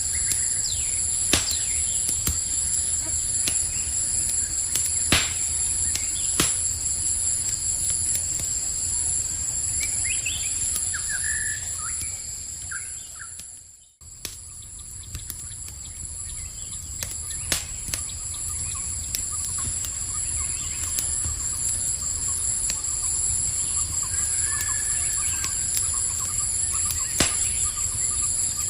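Campfire crackling, with sharp pops every few seconds over a low steady rumble, under a steady high-pitched chorus of night insects such as crickets. A few short chirps come in the middle and near the end. About halfway through, the whole sound fades almost to silence and fades back in.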